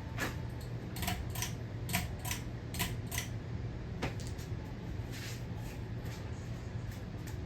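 Hampton Bay Hawkins ceiling fan running with a steady low hum, with scattered light clicks and ticks at irregular intervals over it.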